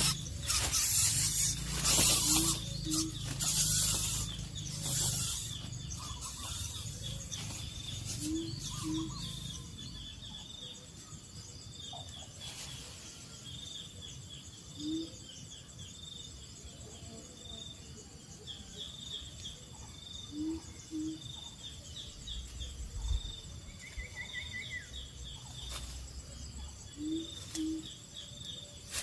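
Wild birds calling: many short high chirps throughout, with a low two-note hoot repeating about every six seconds. A few loud rustling noise bursts in the first several seconds.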